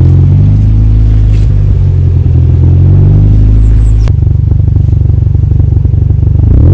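Car engine running with a deep, loud exhaust note, mostly steady, with a sudden change in the sound about four seconds in and a rev rising near the end.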